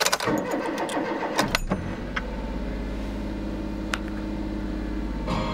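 Suzuki Every Join (DA62V) van's naturally aspirated K6A three-cylinder engine cranking on the starter and catching after about a second and a half, then settling into a steady cold idle. Near the end the car stereo comes on playing music.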